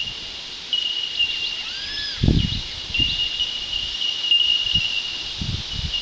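Chorus of bell miners (bellbirds): a continuous high ringing made of many overlapping 'tink' notes. About two seconds in, a short rising-and-falling call sounds over it, and low rumbling bumps come and go beneath.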